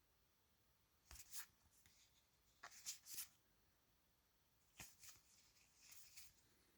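Faint rustling and clicking of board-game cards being handled and flipped through, in four short bursts about a second or so apart.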